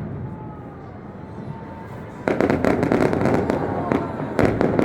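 Fireworks display: a low rumble with faint whistles for about two seconds, then a rapid volley of bangs and crackling from aerial shells, with one especially loud bang near the end.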